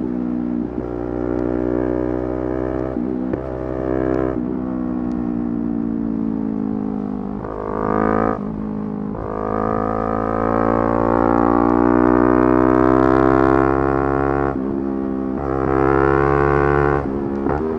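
Yamaha R3's 321 cc parallel-twin engine revving hard, its pitch climbing steadily and dropping sharply at gear changes several times, with one long pull in the middle.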